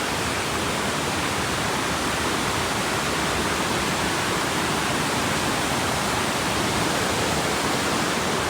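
Vickery Creek's rushing water: a steady roar with no breaks or distinct events.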